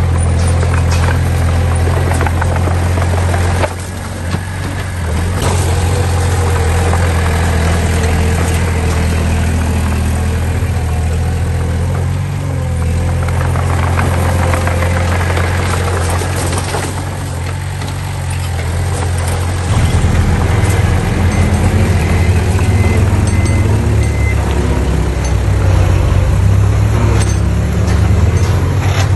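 Diesel engines of heavy earthmoving machines (dump trucks and a small bulldozer) running at work, a steady low engine note throughout. About two-thirds of the way through, a louder engine with a different note takes over.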